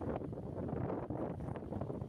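Strong wind buffeting the microphone, with a boat's engine running underneath.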